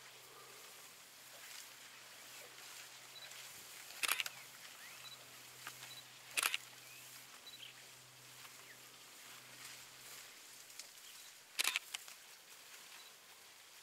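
Camera shutters clicking in three short bursts, about four seconds in, at six and a half seconds and near the end, over faint outdoor ambience with a low steady hum and a few faint chirps.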